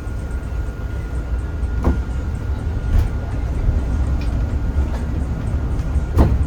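Cabin noise of a Zhongtong hybrid range-extender city bus on the move: a steady low rumble with a faint high whine. Two sharp knocks or rattles sound about two seconds in and again near the end.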